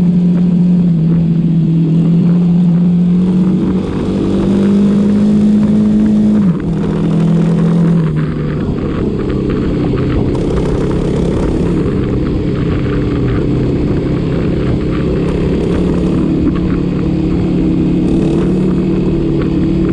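Motorcycle engine running under way, its note stepping up about two seconds in, dropping sharply twice a little later, then holding fairly steady, over constant wind rush.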